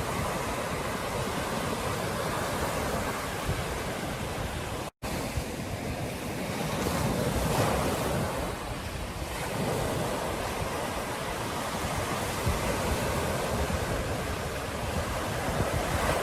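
Ocean surf washing onto a beach, waves swelling and receding, with wind buffeting the microphone. The sound drops out to silence for an instant about five seconds in.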